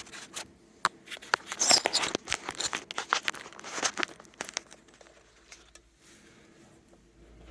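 Handling noise of a phone camera being fitted back onto a tripod: irregular clicks, knocks and rubbing for about four seconds, then quieter.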